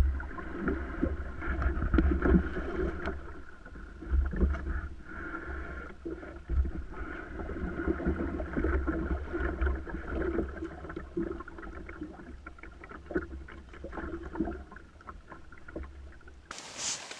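Canoe being paddled off from the put-in: irregular paddle strokes and water splashing and knocking around the hull, over a steady low rumble on the microphone. Near the end the sound switches abruptly to an even rush of running water.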